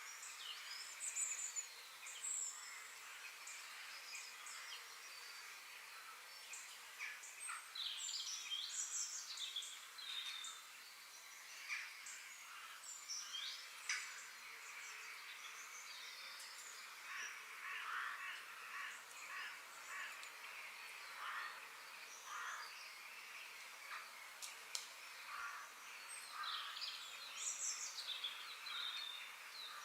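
Wild birds chirping and calling, many short high calls and quick whistled glides overlapping, over a faint steady outdoor hiss.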